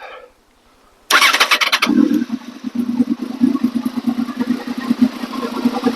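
2008 Honda VFR800's V4 engine cranking on its electric starter for under a second, then catching and settling into a steady idle. This is the first start of a freshly swapped-in used engine, and it fires on the first try.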